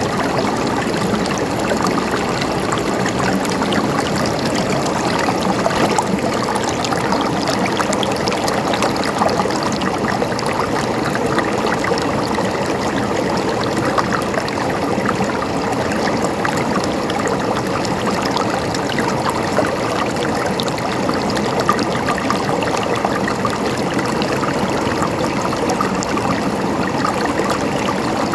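Water flowing and gurgling steadily, with many small splashes and trickles throughout.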